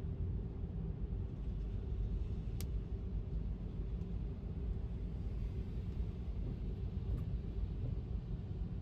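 Steady low rumble of a car driving on a wet road, with one sharp tick about two and a half seconds in.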